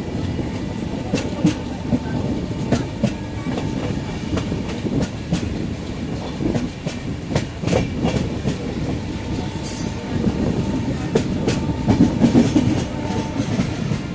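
A moving passenger train running along the track: a steady low rumble with irregular clicks and clatter from the wheels, and a brief high squeak about ten seconds in.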